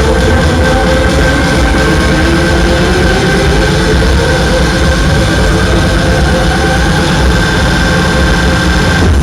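Fairground ride machinery running: a loud, steady deep hum with a high whine, and a tone that rises slowly a couple of seconds in as the drive speeds up. Faint music sits underneath.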